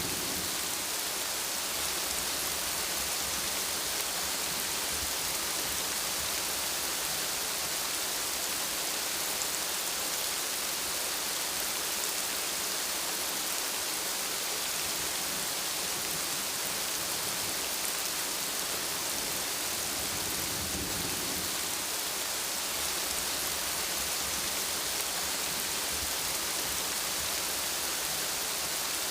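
Steady rainfall, an even hiss of rain falling on surfaces, with a brief low rumble about two-thirds of the way through.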